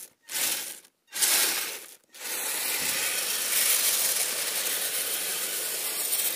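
RC crawler driving over icy, crunchy snow: a few short crunches, then about four seconds of continuous grinding and crunching from its drivetrain and tracks on the ice.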